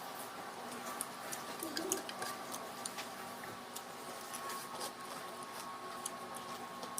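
Scattered faint clicks and taps of someone eating a meal, over a steady low hum.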